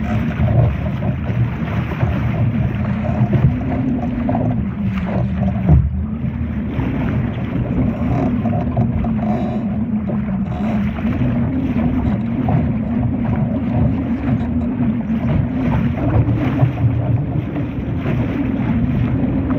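Wind buffeting the microphone over water rushing and splashing against the hull of a Laser sailing dinghy under way: a steady, heavy, low noise with no let-up.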